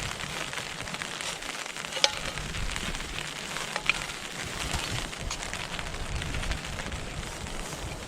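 Steady rain hissing, with scattered heavier drops ticking, the strongest about two seconds in and again near four seconds.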